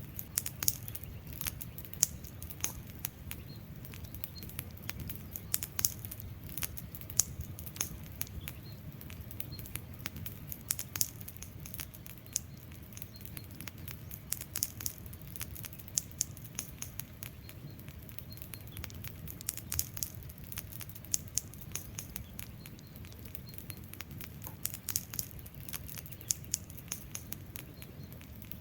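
Wood fire burning: burning logs crackle and pop with many irregular sharp snaps over a low, steady rumble of flame.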